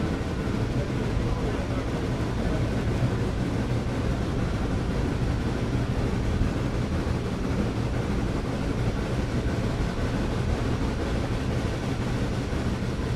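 Excursion train rolling steadily: a continuous, even rumble of the moving train with no distinct chuffs or impacts standing out.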